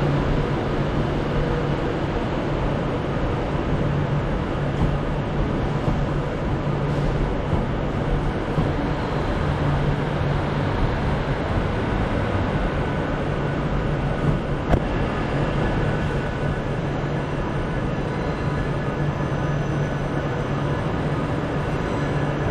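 A train running at a station platform: a steady low hum over a continuous rumble, with no horn or sudden sounds.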